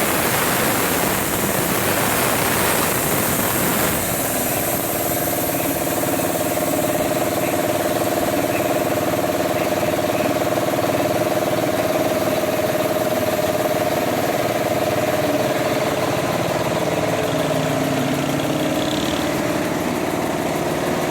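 An engine running steadily. A noisy rush for the first four seconds gives way to an even hum with a steady tone.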